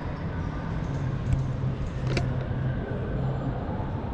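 Steady low hum and rumble, like a running vehicle or machinery, with two faint clicks, one about a second in and one past the two-second mark.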